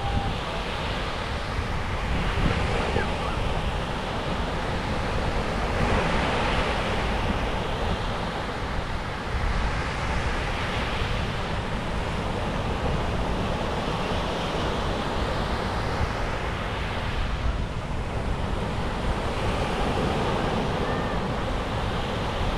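Sea waves breaking on a beach, the surf swelling and falling back every few seconds, with wind rumbling on the microphone.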